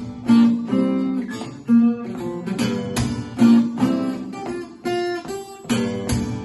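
Acoustic guitar strummed in a steady rhythm, chords ringing between the strokes, in an instrumental passage with no singing.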